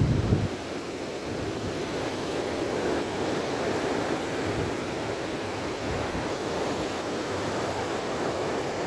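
Rough sea surf washing and breaking in a steady rush of noise. Wind buffets the microphone at the very start, stopping about half a second in.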